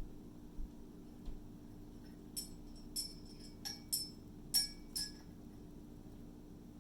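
Small glass vials and a glass potion bottle clinking together: about six light, ringing clinks in quick succession from about two and a half seconds in, after a few soft taps.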